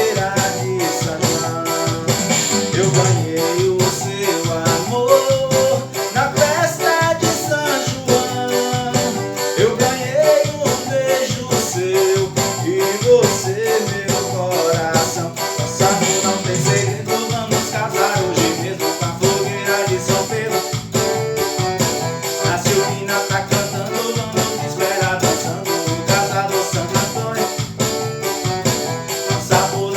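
Forró music played on a Casio MZ-X500 arranger keyboard: a moving melody line over the keyboard's rhythm accompaniment, with a fast, even shaker-like beat.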